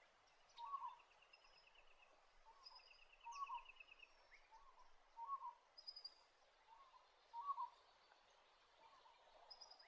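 Faint birdsong: a bird repeats short, low notes about once a second, while other birds add two buzzy trills early on and brief high notes.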